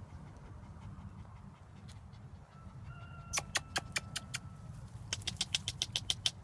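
Two runs of quick, sharp clicks over a steady low rumble: a few spaced clicks a little past three seconds in, then a faster run of about eight a second near the end.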